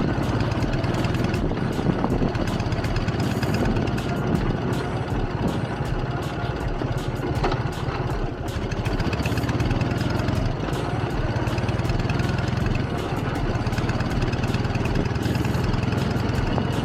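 K-750 motorcycle's side-valve flat-twin engine running at a steady idle through its rebuilt mufflers, now fitted with welded-in baffles; the exhaust is still somewhat loud.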